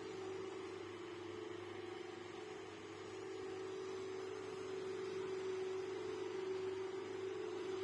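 A steady hum with faint hiss, holding one pitch and growing slightly louder about halfway through.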